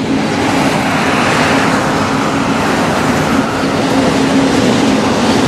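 A long freight train of flat cars rolling past with a steady rumble, mixed with the road noise of a car driving nearby.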